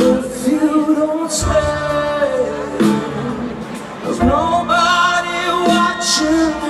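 Live rock band playing, a male lead singer holding long notes that slide between pitches over guitar and drums.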